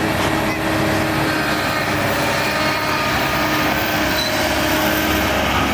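Diesel engine of heavy earthmoving machinery running steadily, a constant loud drone with faint steady whine tones over it.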